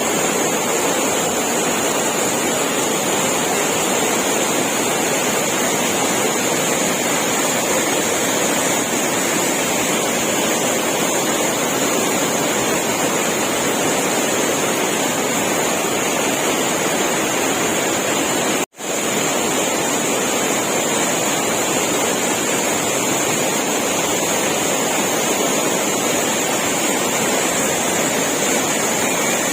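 Steady rushing of a waterfall. The sound cuts out for a split second about two-thirds of the way through, then resumes unchanged.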